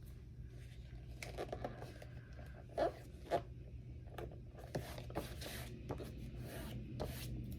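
Paper rustling and light scraping in short bursts as magazine cut-outs are handled and pressed onto a sketchbook page, with two sharper rustles a little under halfway through.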